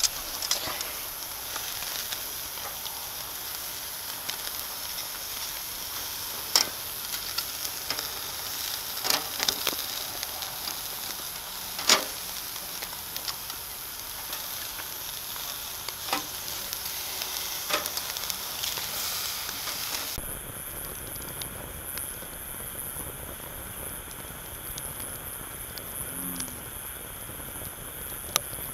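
Food sizzling as it fries over a fire: a steady hiss with scattered sharp pops. About twenty seconds in the sound changes abruptly to a different, thinner hiss.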